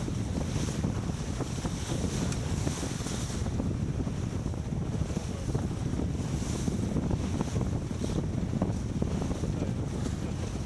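Wind buffeting the microphone aboard a sailboat under way, with water rushing along the hull: a steady, low rush.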